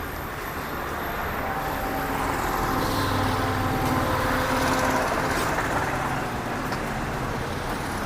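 Road traffic: a motor vehicle passing, its engine and road noise swelling to a peak around the middle and fading again.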